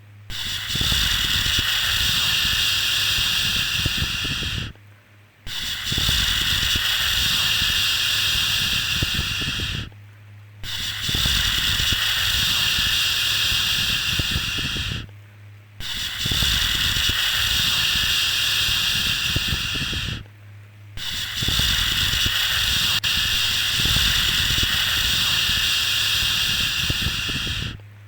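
Long, steady 'shhh' shushing sounds for soothing a baby, repeated one after another, about five in all, with brief pauses between them.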